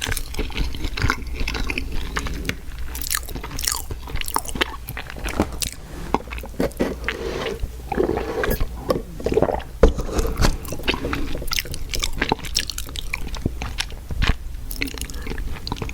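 Close-miked eating of fast food: a rapid run of crisp crunching bites and chewing, with softer, wetter chewing in the middle.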